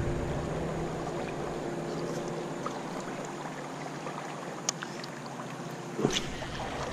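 Creek water running steadily, with a low steady hum that fades out over the first few seconds. A sharp click about two-thirds in and a louder knock near the end.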